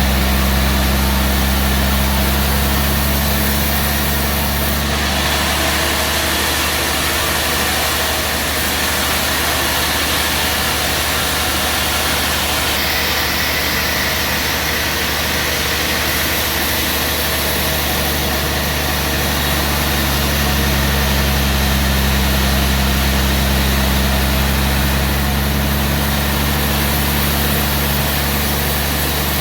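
Band sawmill running steadily with a low mechanical drone under a constant hiss. The drone's pitch shifts a few seconds in and again after about twenty seconds.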